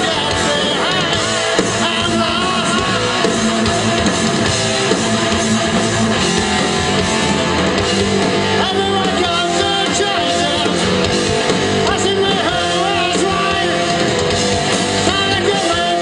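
A rock band playing live, with guitar and singing over a steady, dense band sound.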